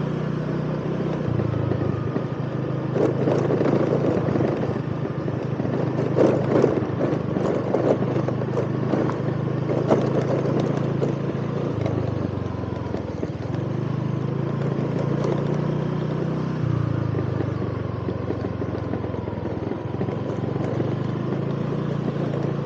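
Motorcycle engine running under way on a rough dirt road, its pitch stepping up and down a few times as the revs change. Rattles and clatter come through the first half.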